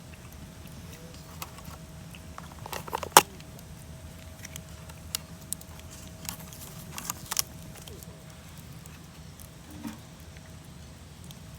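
Scattered light clicks and clinks of tableware or utensils being handled during a meal, with the sharpest click about three seconds in, over a low steady background rumble.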